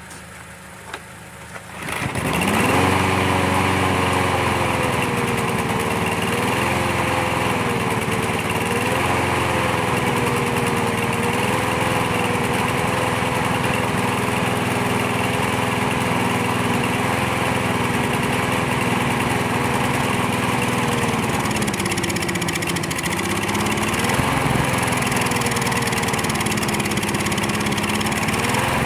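Briggs & Stratton push-mower engine starting up about two seconds in and then running with its speed wavering up and down, sagging and picking back up near the end. The unsteady running comes from a sticking automatic choke flap choking the carburetor, which the owner suspects is clogged with debris.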